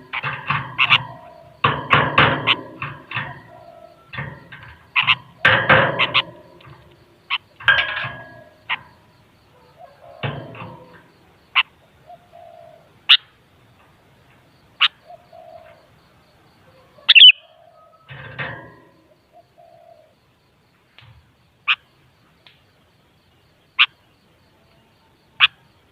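Sooty-headed bulbul (kutilang) calling: bursts of quick chattering notes for roughly the first ten seconds, then single sharp high chirps every second or two with pauses between.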